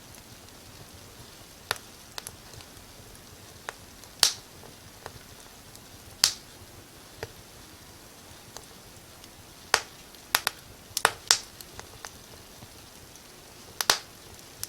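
Wood fire in a fireplace crackling: sharp, irregular pops over a faint steady hiss, with a quick run of pops about two-thirds of the way through.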